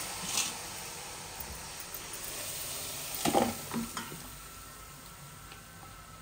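Chicken pieces sizzling in hot oil in a non-stick pan, the sizzle slowly dying down. A few sharp clinks of a utensil against the pan come about three seconds in.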